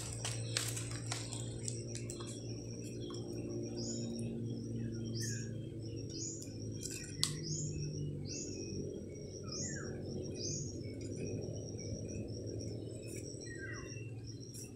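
Birds chirping: short high chirps repeating about once a second, with a few lower falling whistles, over a steady low hum. A few light taps and rustles, the sharpest about seven seconds in.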